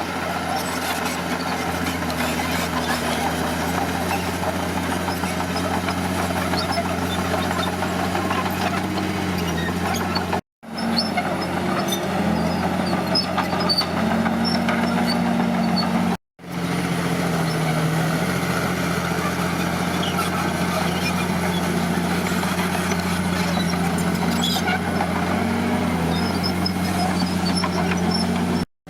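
Heavy diesel engine of earthmoving equipment running steadily under working load, its pitch dipping and rising a little as the load changes. The sound cuts out abruptly and briefly twice in the middle and once near the end.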